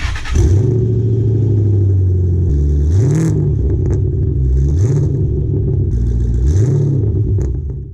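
A 2007 Pontiac Grand Prix GT's engine running at a steady idle and revved three times, about two seconds apart, each rev rising briefly in pitch and falling back.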